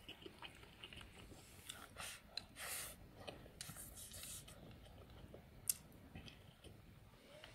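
Faint chewing and mouth noises of a person eating rice with stir-fried pork intestines, in short irregular bursts, with one sharp click a little before six seconds in.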